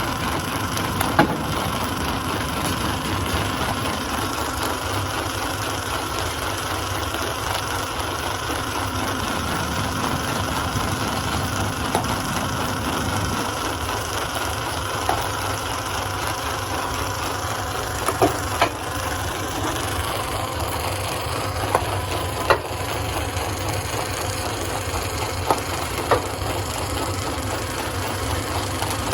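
Stone crusher running steadily under load, with a handful of short sharp knocks scattered through the steady din.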